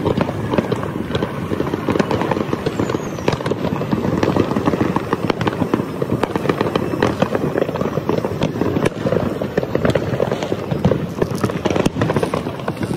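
Many fireworks and firecrackers going off at once: a dense, unbroken crackle and popping, with a brief high whistle about three seconds in.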